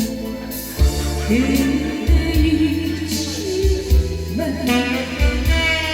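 A woman singing a slow trot ballad live over an electronic keyboard backing, with a steady bass line and drum beat. Her voice holds and bends long notes.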